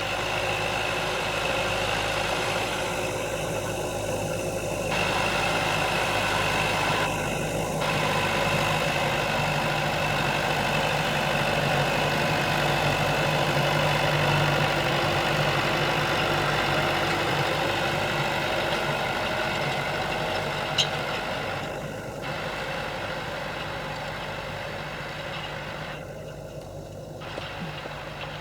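Tractor engine running at a steady pitch, with one sharp click about three-quarters of the way through; it eases a little quieter over the last few seconds.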